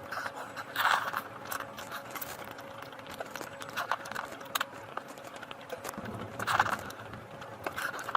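Close-miked eating: wet chewing and mouth smacks, with a handful of sharper smacks scattered through, over a faint steady hum.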